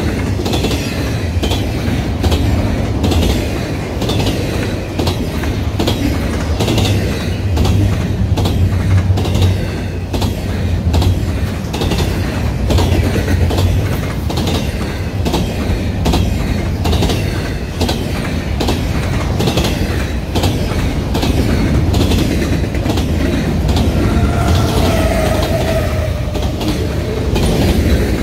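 Loaded freight cars of a passing train (double-stack container well cars, then centerbeam lumber flatcars) rolling by close up: a steady, heavy rumble with repeated clacks as the wheelsets cross rail joints. A brief high wheel squeal rises out of it near the end.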